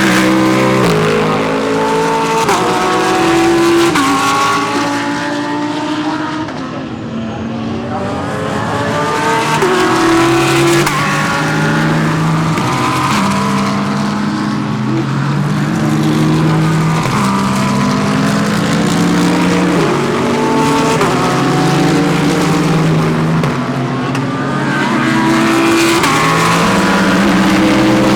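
Several GT3 race cars passing through a corner in close succession, their engines overlapping as they change gear, with pitch stepping up and down throughout.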